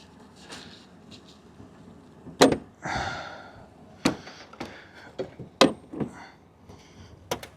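Four sharp knocks or clicks, roughly one and a half seconds apart, with soft rustling between them, as of objects being handled.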